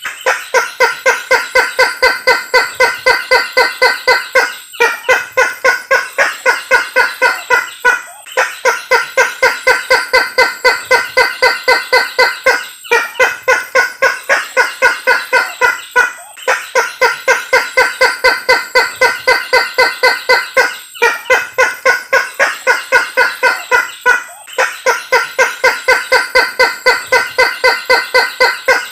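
Recorded lure call of the tattakeo or kareo sulawesi, a Sulawesi rail: a fast series of harsh repeated notes, about four or five a second, in phrases of around four seconds with short breaks between them.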